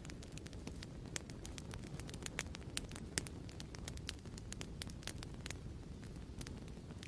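Wood fire crackling in a fireplace: a steady low rumble of flames with many sharp, irregular pops and snaps.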